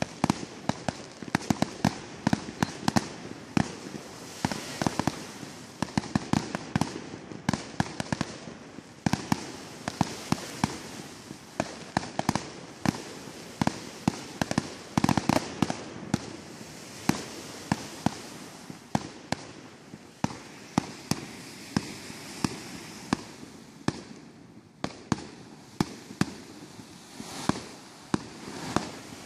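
Consumer fireworks going off in a long, irregular barrage of bangs and pops, several a second, over a continuous crackle.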